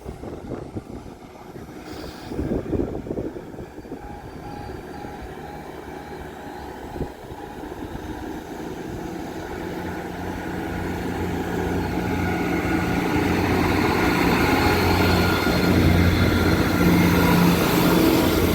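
A British Rail Class 158 diesel multiple unit pulling away from the station, its underfloor diesel engines running under load and growing steadily louder as it accelerates past. A short pulsing beep sounds a few seconds in.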